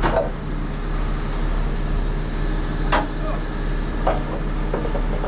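Heavy truck's diesel engine running steadily, with a few sharp knocks about three and four seconds in.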